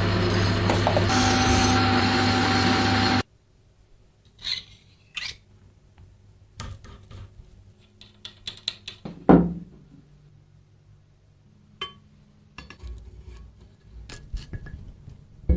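A motorised tool running steadily and cutting off abruptly about three seconds in, followed by scattered clicks and knocks of parts being handled, one knock louder and ringing briefly near the middle.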